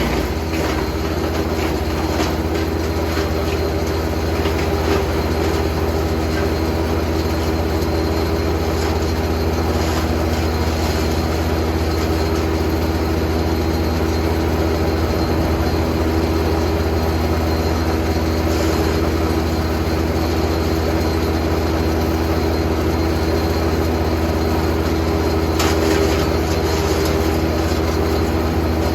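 Jansen GTS 1500e wood chipper running steadily, with a constant low hum and a few faint brief rattles along the way.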